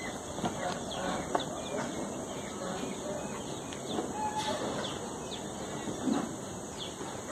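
Birds chirping now and then over a faint steady background, with short high calls scattered through it and one brief call about four seconds in.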